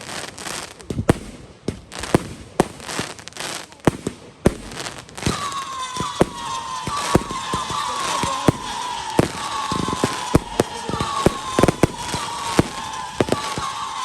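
Firework display: a rapid string of sharp bangs and crackles. From about five seconds in it is joined by several whistling fireworks, their whistles overlapping and each sliding slowly down in pitch.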